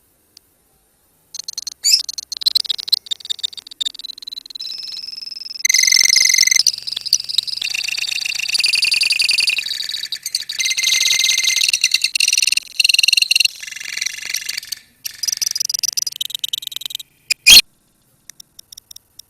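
A colony of lovebirds chirping and chattering in rapid high-pitched trills, starting about a second in, with a sharp click near the end.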